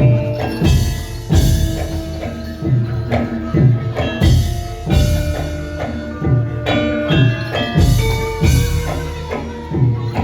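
Gamelan music: struck bronze metallophones and gongs ringing over regular drum strokes.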